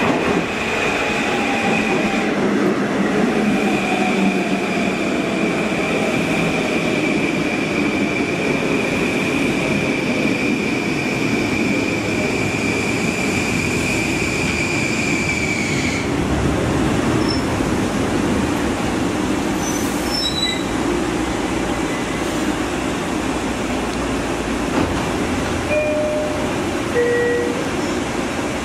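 Long Island Rail Road Kawasaki M9 electric train pulling in and braking to a stop, with a steady high squeal and a slowly falling whine as it slows. The squeal cuts off about sixteen seconds in as the train halts. Near the end there is a short two-note chime.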